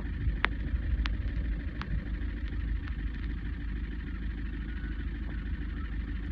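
Engine running steadily, a low rumble, with a few sharp clicks in the first two seconds.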